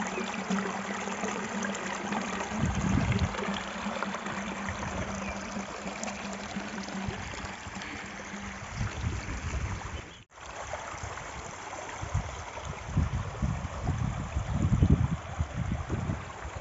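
Floodwater rushing and flowing steadily. A steady low hum runs through the first half, and the sound drops out briefly about ten seconds in.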